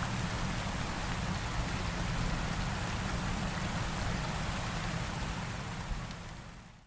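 Heavy rain falling steadily with a low rumble underneath, fading out over the last second.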